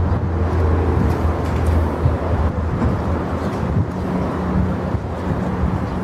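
Steady rumbling of electric commuter trains, with a low hum that fades within the first second and a higher hum that comes in about four seconds in.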